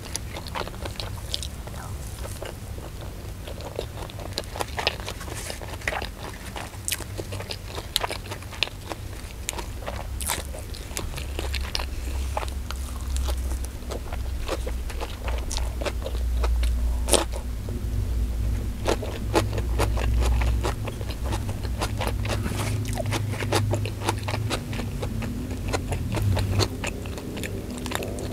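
Close-miked chewing and crunching of a meal of rice, fried chicken and raw vegetables, with many sharp mouth clicks throughout and a low rumble that swells in the middle.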